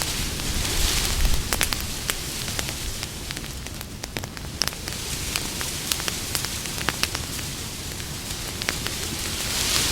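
Campfire burning: a steady hiss with scattered sharp crackles and pops from the burning wood, swelling in a soft rush twice.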